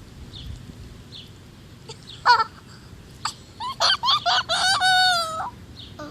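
A rooster crowing: a run of short notes ending in one long held note, after a single shorter call a couple of seconds earlier.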